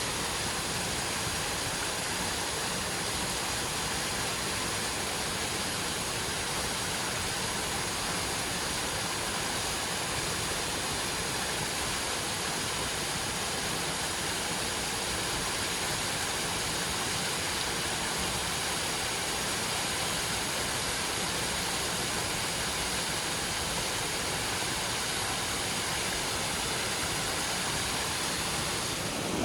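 Heavy rain falling steadily, an even hiss with no separate knocks or drops standing out.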